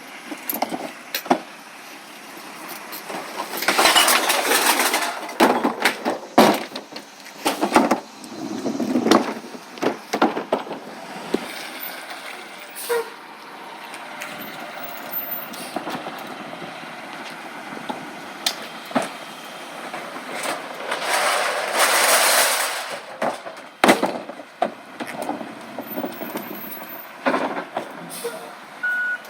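Recycling truck at work: a string of clanks and knocks, with two longer rushing bursts, one about four seconds in and one about twenty-one seconds in.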